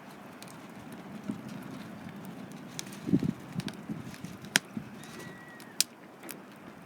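Wood fire crackling, with irregular sharp pops and a few low knocks about three seconds in.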